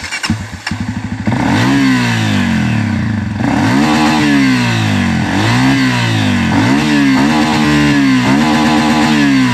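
Dirt bike engine fires up and runs briefly at a low idle, then is revved up and down over and over, about once a second, each rev rising and falling back.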